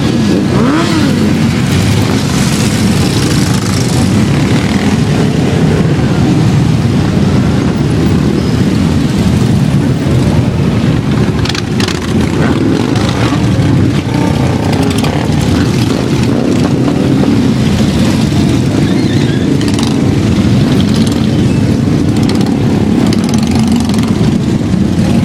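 A large mass of motorcycles riding past together, a loud, continuous din of many engines. Revs rise and fall about a second in.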